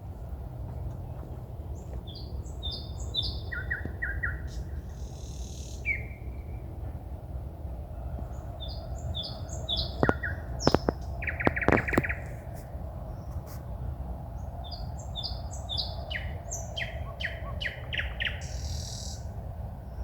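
A songbird singing at night in short, repeated phrases of high notes, with a loud passage of sharp clicks and a rattle about halfway through, over a steady low background rumble.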